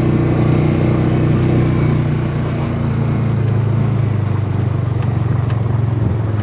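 Vehicle engine running steadily, its pitch settling slightly lower about two seconds in.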